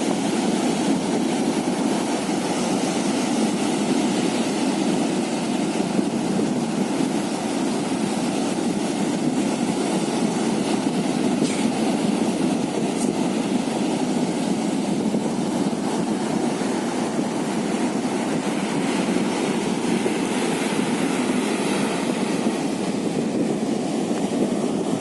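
A fishing boat's motor running steadily at sea: an even, unchanging drone that holds throughout.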